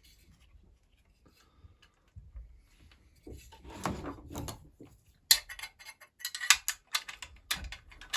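Metal hand tools and small chainsaw parts clinking while a retaining band is worked off the rubber intake boot of a Husqvarna 346XP: quiet handling at first, a soft rubbing about four seconds in, then a quick run of sharp metallic clicks and clinks over the last three seconds.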